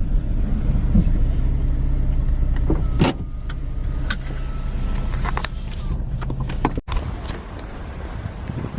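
A car running with a steady low hum, with several sharp clicks and knocks from about three seconds in.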